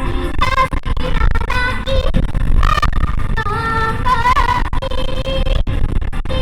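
A female singer's live vocals over amplified pop backing music, with strong wind buffeting the microphone and adding a heavy low rumble.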